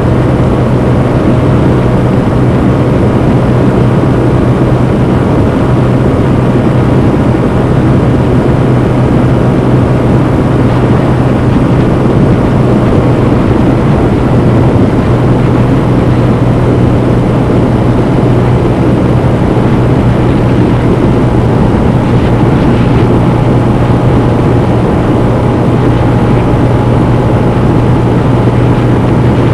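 Honda CB125F's 125 cc single-cylinder four-stroke engine pulling at a steady pitch while under way, heard onboard over a constant rush of road and air noise.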